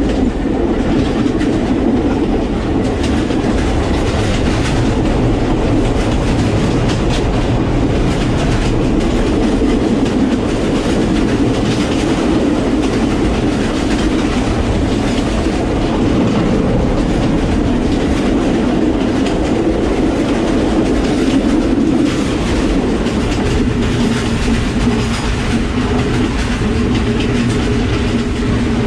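Sri Lanka Railways passenger coaches running, heard from the open gangway between two carriages: a steady, loud rattle and clatter of wheels and metal fittings.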